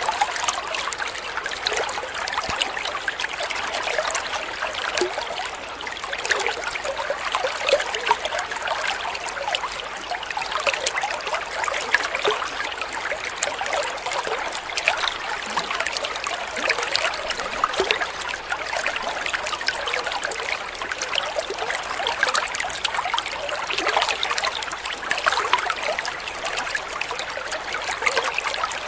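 Shallow stream trickling and babbling over stones, a steady splashing with no break.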